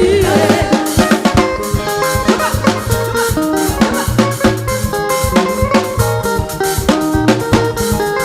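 Band music with no singing: a drum kit keeps a busy beat of bass drum and snare under held chords and a bass line.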